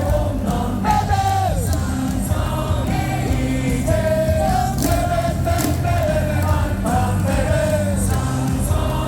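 Baseball stadium crowd singing a cheer song together over amplified music with a steady beat.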